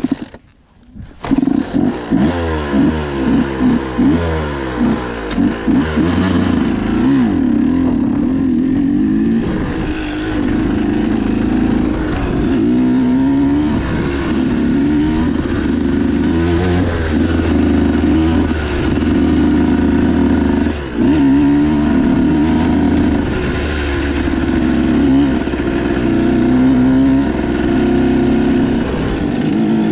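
Motocross dirt bike engine, close up: after a brief lull it comes in with a series of quick revs, then runs on continuously with the pitch repeatedly rising and falling as the throttle is opened and closed.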